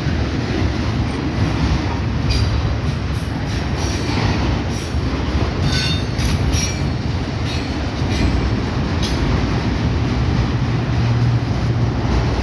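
Freight train cars rolling past with a steady rumble of steel wheels on the rails. Short high-pitched wheel squeals come in the middle.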